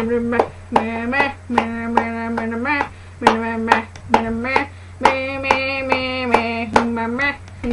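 A voice making weird noises: a series of long, steady-pitched vocal tones, some held over a second, broken by short clicks and taps.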